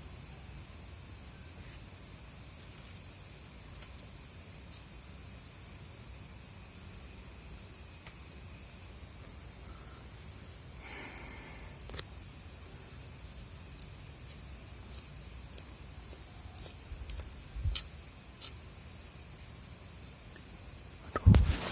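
Crickets chirring at night in a steady, high-pitched, rapidly pulsing trill. A few faint clicks come in the second half, and a loud low thump sounds near the end.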